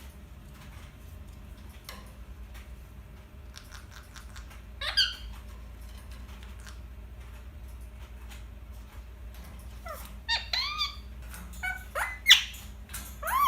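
Indian ringneck parakeet giving short, squeaky calls that slide in pitch: one about five seconds in, then a quick run of them from about ten seconds in. Faint clicks come and go under the calls.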